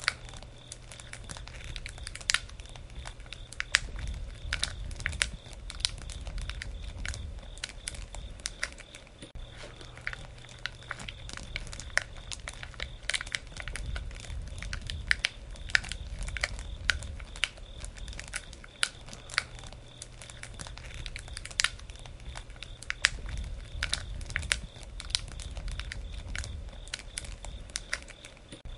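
Campfire of burning wood crackling and popping: many irregular sharp snaps, some louder than others, over a low rumble of the flames that swells and eases every few seconds.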